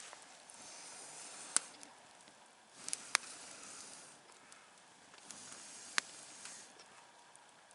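Wood campfire burning with a hiss that swells and fades, broken by sharp crackling pops: one about a second and a half in, a quick pair about three seconds in, and another about six seconds in.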